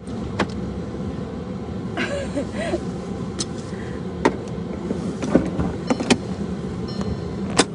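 A car running with a steady low rumble, heard from inside the cabin, with about six sharp clicks or knocks spread through it.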